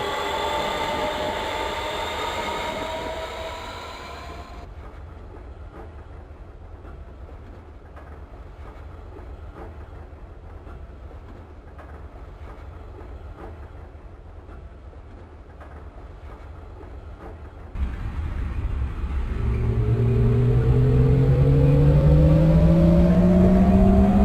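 Lisbon Metro ML90 electric train running: its traction motors whine, rising in pitch, then cut off suddenly about four and a half seconds in. The train then runs on with a steady, quieter rail rumble. About 18 seconds in the noise jumps, and a new motor whine climbs steadily in pitch and grows loud as the train speeds up again.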